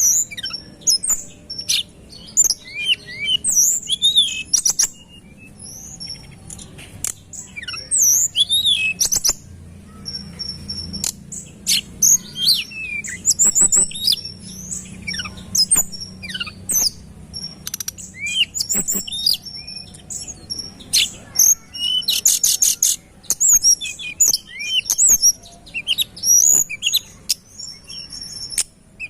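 Tledekan gunung songbird singing energetically: rapid, closely packed phrases of high chirps and quick whistled up-and-down notes, with brief pauses between phrases and a fast rattling series a little past the middle.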